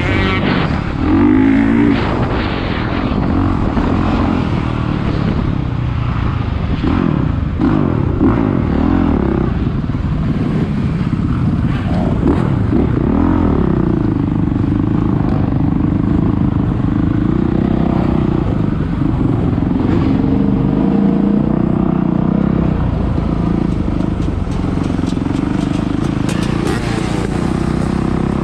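450cc motocross bike engine revving hard, its pitch rising and falling again and again as the rider accelerates, shifts and backs off.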